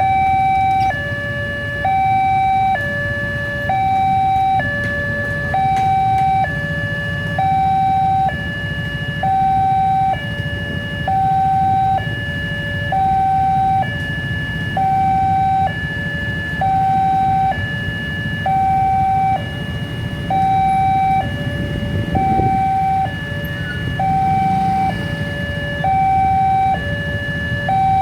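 Railway level crossing warning alarm sounding: an electronic two-tone signal switching evenly between a higher and a lower tone, about a second each, the warning that a train is approaching. A steady low rumble of road traffic runs underneath.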